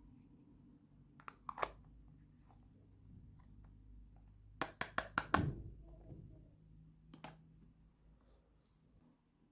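Small hard plastic toy pieces being handled. There are a couple of light clicks, then a quick run of about five sharp clicks about halfway through, and one more click later, over a faint low hum.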